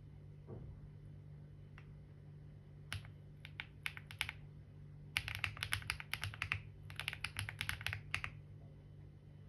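Typing on a computer keyboard: a few scattered keystrokes about three seconds in, then two quick runs of rapid typing, each lasting over a second. A low steady hum sits underneath.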